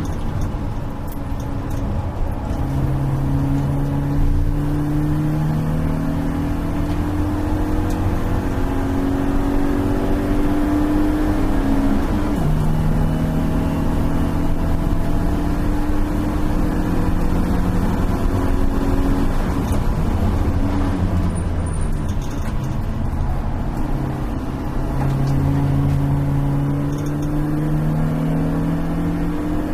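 BMW E36 318is race car's stock four-cylinder engine heard from inside the stripped cabin at racing speed, its pitch climbing through the revs and dropping back at each gear change, several times, over steady road and wind noise.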